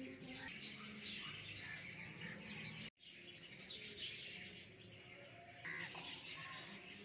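Birds chirping and calling in many short, quick notes, with the sound cutting out for an instant about three seconds in.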